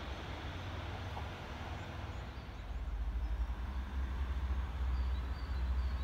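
Low rumble of a distant diesel train approaching, swelling about two and a half seconds in. A few faint bird chirps near the end.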